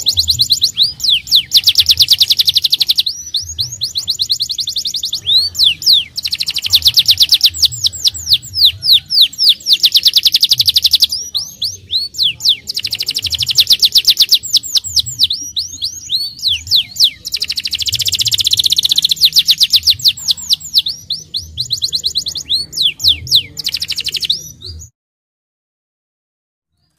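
Canary singing a long song of fast, high-pitched trills and rolls in phrases of a few seconds each, over a low hum. The song cuts off suddenly near the end, leaving silence.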